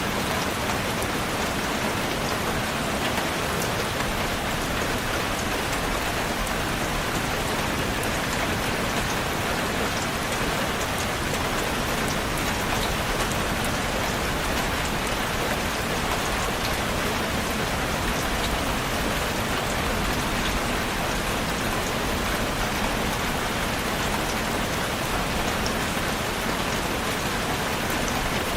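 Steady rain falling on a surface, a dense even hiss with fine scattered drop patter.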